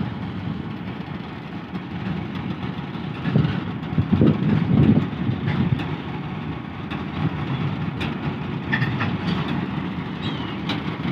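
Loaded coal hopper wagons rolling slowly past on the rails behind a shunting GMCU-15 diesel locomotive, with the locomotive's engine running steadily. There is a louder stretch about four seconds in, and a few sharp clicks of wheels over rail joints in the second half.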